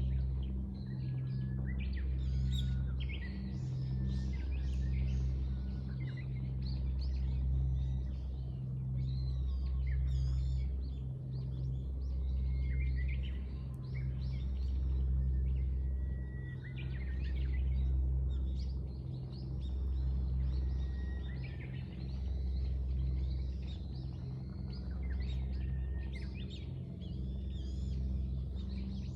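Several small birds chirping and singing, with short calls and trills overlapping throughout. Beneath them runs a low rumble that swells and fades every couple of seconds.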